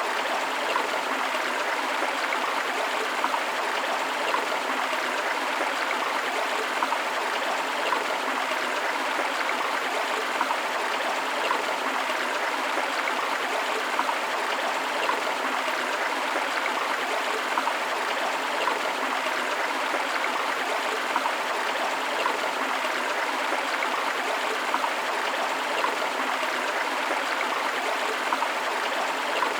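Water rushing over rocks in a river or stream, a steady splashing hiss with small gurgles and splashes scattered through it.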